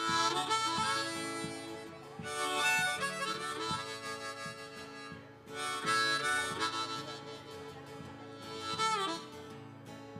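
Harmonica playing the intro of an Americana/folk-blues song in four phrases, the last bending down in pitch, over strummed acoustic guitars keeping a steady beat.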